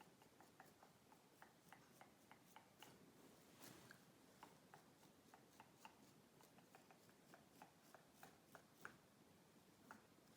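Quiet, close-miked mouth sounds of gum chewing: soft wet clicks and smacks, a few a second at an uneven pace, with one brief rustle near the middle.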